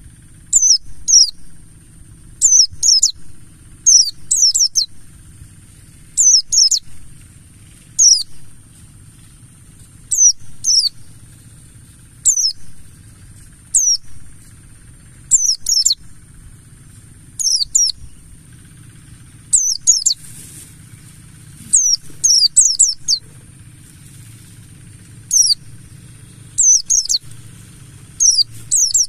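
White-eye (pleci, buxtoni type) singing: short bursts of rapid, high, falling chirps, repeated every second or two, over a steady high-pitched hiss.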